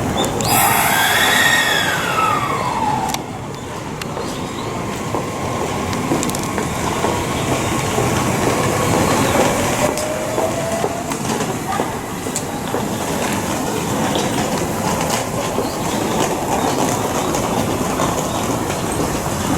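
Electric train running on the track: a steady rumble of wheels with scattered clicks, a whine that rises and then falls in the first few seconds, and a fainter rising whine in the middle.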